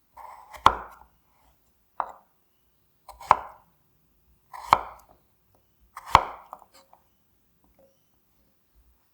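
Kitchen knife cutting food on a cutting board: five separate cuts about a second and a half apart, each a brief slicing sound ending in a sharp knock of the blade on the board.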